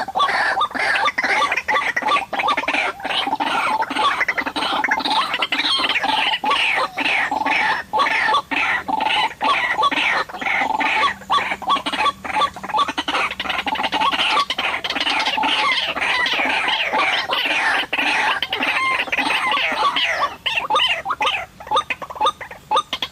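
White-breasted waterhen calling: a dense run of repeated harsh 'ruak-ruak' croaks that thins into separate calls near the end.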